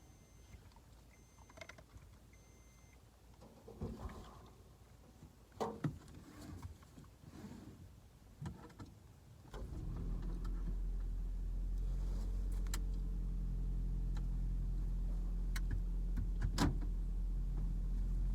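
Clicks and knocks of handling inside a car, with a short chime about a second and a half in; about nine and a half seconds in the car's engine starts and runs at a steady idle.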